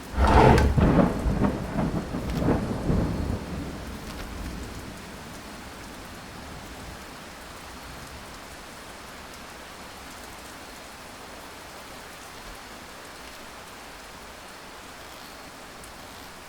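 A thunderclap that rolls and rumbles for about four seconds, fading into steady heavy rain.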